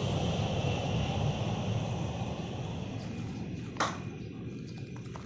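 Steady low rumble, slowly fading, with one sharp click near the end.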